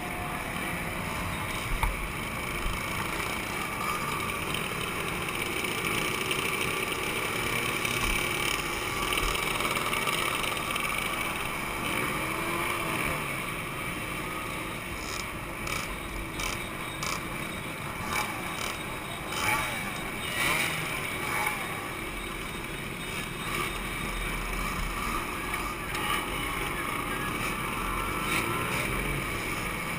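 Two-stroke motorcycle engines running, with a level that keeps rising and falling.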